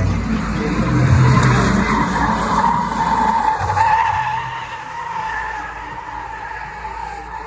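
Car tyres screeching against the pavement with the engine running underneath, as in a burnout or donuts. It is loudest in the first half and eases off after about four seconds.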